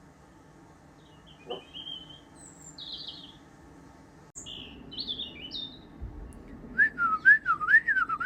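Small birds chirping with short high notes, then, near the end, a person whistling a warbling tune that rises and falls, imitating the birdsong. The whistle is the loudest sound.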